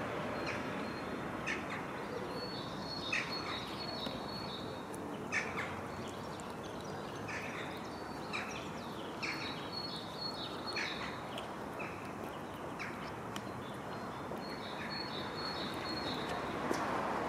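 Small birds chirping at intervals over a steady outdoor background noise, with a high, thin repeated note that comes and goes.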